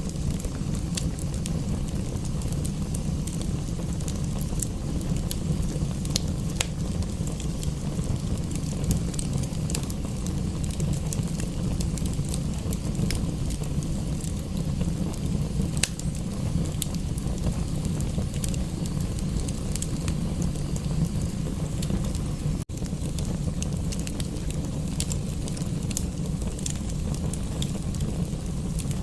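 Wood fire crackling in a fireplace, with sharp scattered pops over a steady low rumble.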